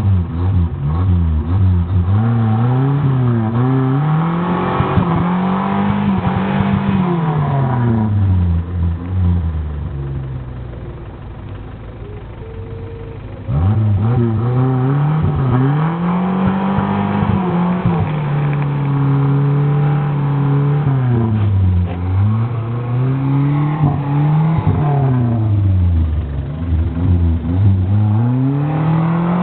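Small Suzuki off-roader's engine revving up and down again and again, the pitch climbing and falling over a few seconds each time, as a vehicle stuck in mud spins its wheels while being towed out. It goes quieter about ten seconds in, then comes back loud suddenly near the middle.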